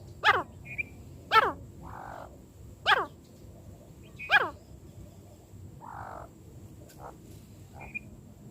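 Francolin (teetar) calling: four short, loud notes in the first half, each falling sharply in pitch, followed by a few faint chirps.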